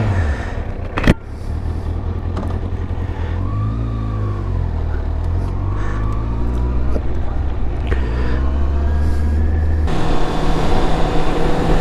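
Motorcycle engine idling just after being started, with one sharp knock about a second in and a brief rise and fall in the engine note around four seconds in. Near the end the sound cuts abruptly to a different steady engine hum.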